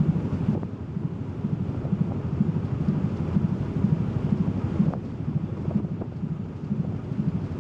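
Wind buffeting the microphone over the low, steady rumble of a car ferry under way.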